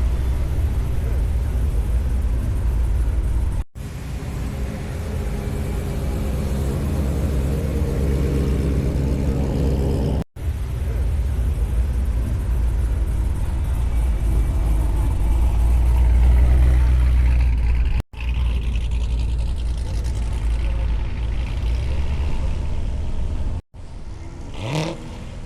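Car engines rumbling and revving, heard in several short clips joined with abrupt cuts, with a brief rising squeal near the end.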